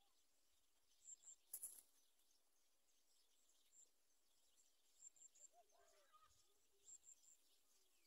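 Faint high-pitched bird chirps in quick groups of two or three, coming every couple of seconds, with a single sharp click about one and a half seconds in and a few soft, lower calls around six seconds in.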